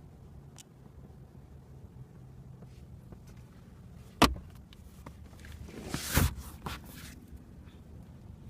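Plastic clicks and handling noise from the car's rear armrest fittings: one sharp click about four seconds in, then a short cluster of rustles and clicks around six seconds, over a faint low hum.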